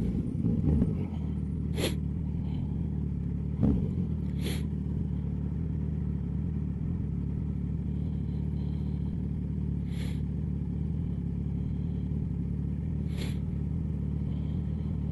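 Motorcycle with a sport exhaust running steadily at an even engine speed, a low hum with no revving. A few brief clicks sound over it.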